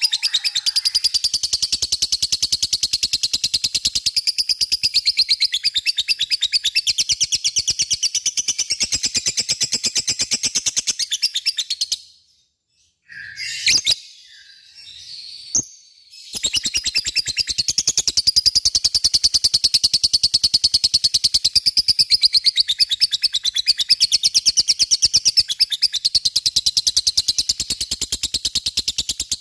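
Lovebird giving its long 'ngekek' song: a fast, high-pitched chattering trill of rapid repeated notes. It breaks off about twelve seconds in for a few seconds with only a couple of short calls, then resumes.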